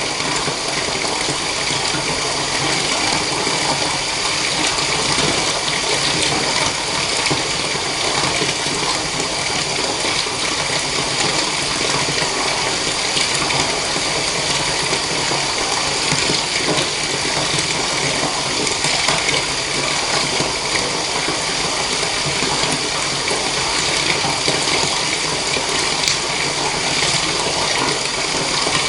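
Steady stream of water running into a bath, an even unbroken rush.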